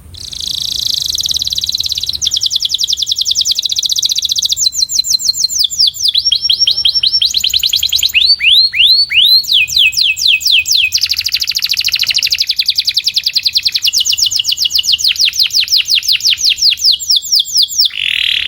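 A canary singing a long unbroken song of rapid trills, each a fast run of repeated high notes, changing from one trill to the next, with slower downward-sweeping notes about halfway through. It is a 'puxada' song recording meant for training young canaries, and it starts and cuts off abruptly.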